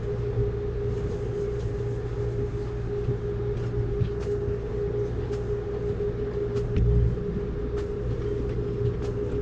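Amtrak Cascades passenger train running along the line, heard from on board: a steady low rumble with a constant hum, scattered light clicks, and one heavier low thump about seven seconds in.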